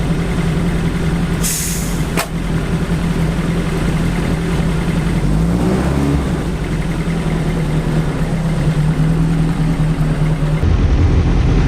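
BAC Mono's engine idling steadily, with a brief rev about halfway through. A short hiss and a click come near the start.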